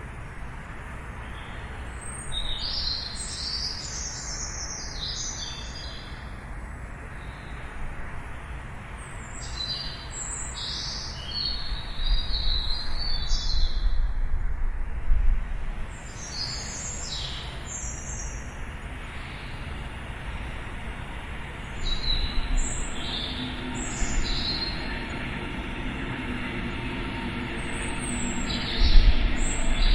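Small birds chirping in short clusters of high, quick notes, over a steady low rumble that grows heavier in the second half.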